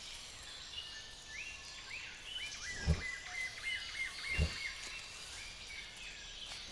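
Rainforest ambience: a chorus of short, repeated chirping calls over a steady hiss, with two dull low thuds about three and four and a half seconds in.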